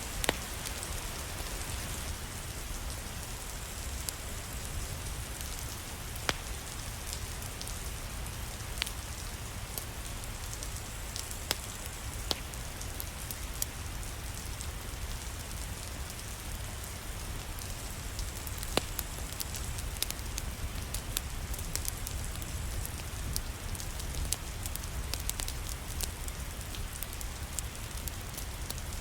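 Steady rain with a low rumble under it, and scattered sharp crackles and pops from a wood fire every second or so.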